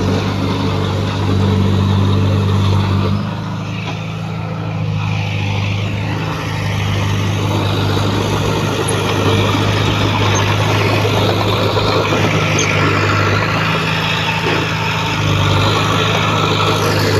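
Heavy earthmoving machine's diesel engine running steadily under load with a low drone. It eases off a little about three seconds in and comes back up near the end.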